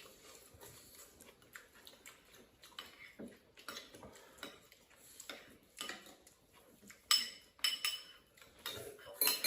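Tableware clinking during a meal: scattered light clicks of utensils against bowls and plates, with a few louder ringing clinks near the end.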